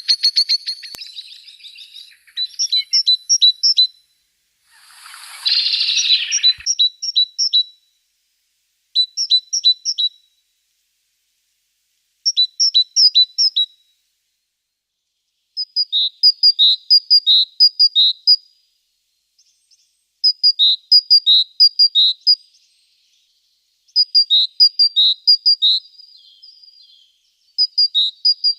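A small songbird singing in repeated short bouts of quick, two-pitched notes, with pauses between bouts. A brief harsh, noisy sound comes about five seconds in.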